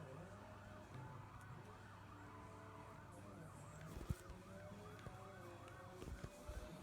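A faint siren in a fast rising-and-falling yelp, about two to three cycles a second, over a low steady hum, with a single thump about four seconds in.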